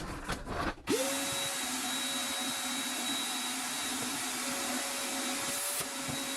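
An electric power tool's motor switches on about a second in, spins up quickly and then runs at a steady, unchanging pitch with no sign of cutting load. Light handling clatter comes before it.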